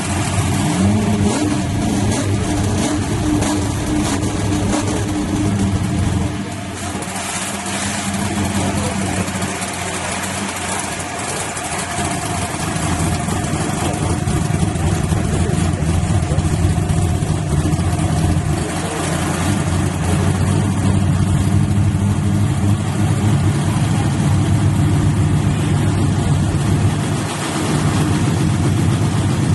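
Engine of an S10 drag-race truck idling loudly and steadily, with a short rise in pitch about a second in.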